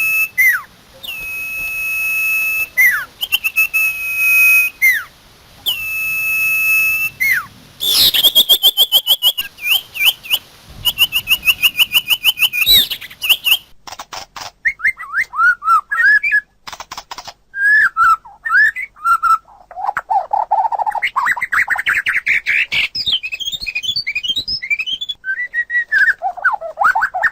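Recorded song of common iora and white-rumped shama. It opens with a series of long drawn whistles that each drop at the end, then rapid trills about a third of the way in, and from about halfway it turns into varied, fast-changing song phrases.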